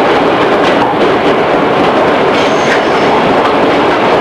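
Running noise of a 211 series electric multiple unit heard inside the motor car: a steady rumble of wheels on rail with light clicks from the rail joints. About two and a half seconds in there is a brief, faint high squeal.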